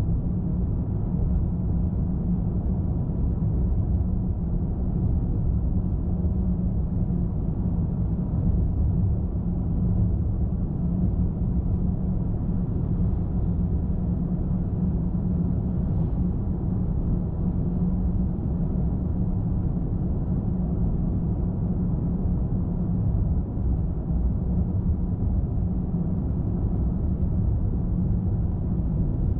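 Steady road noise from a car driving at highway speed: a continuous low rumble of tyres and engine.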